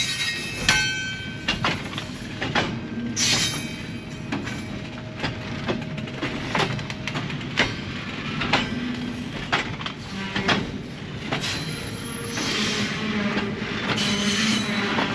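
Train rolling past, its wheels clattering and knocking irregularly over the rails, with brief high wheel squeals over a steady rumble.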